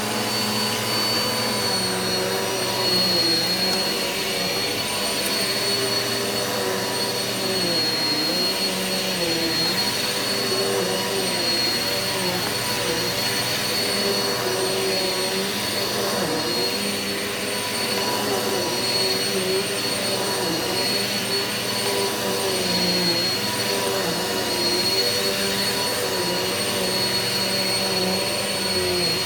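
Eureka vacuum cleaner running steadily over carpet with a high whine. Its motor pitch dips briefly about once a second.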